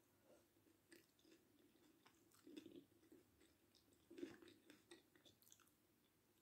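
Faint chewing of fried fish, with small crunches and clicks, louder about two and a half and four seconds in.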